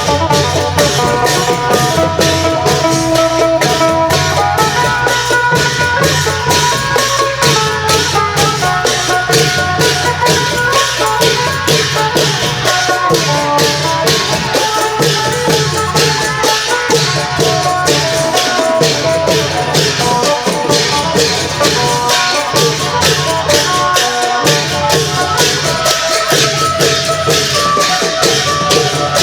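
Isan klong yao long-drum ensemble playing, a phin lute melody over pulsing drums and fast, dense jingling percussion.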